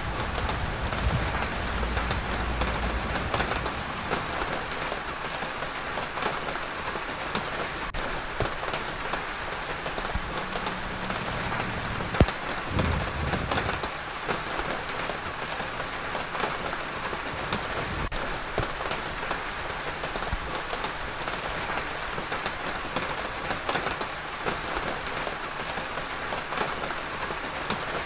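Steady rain falling, an even hiss, with a low rumble in the first few seconds and again about ten seconds in, and one sharp knock a little after that.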